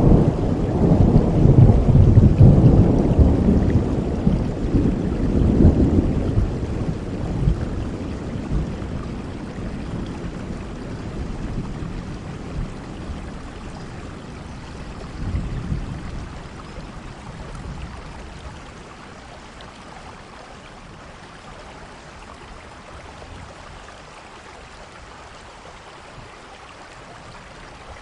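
Thunderstorm: a long, deep roll of thunder, loudest in the first six seconds, slowly dies away over steady rain. A smaller rumble comes about halfway through, then only the rain's steady hiss remains.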